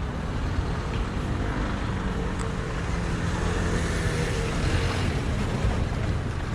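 Road traffic noise with a motor vehicle passing nearby, its sound swelling to a peak a little past the middle and easing off.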